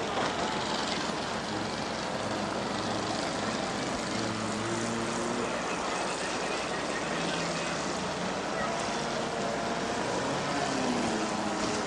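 Several race cars' engines running around a dirt oval together. Engine notes come and go and rise and fall as the cars pass, over a steady, dense rumble.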